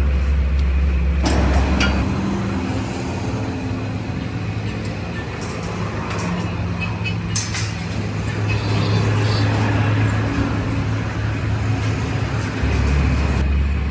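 A steady low machine drone with scattered clicks and knocks. Its low pitch shifts about two seconds in and shifts back near the end.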